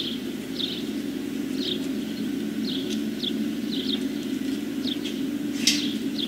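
A small bird calling with short, falling chirps, about two a second, over a steady low hum, with a brief sharp knock near the end.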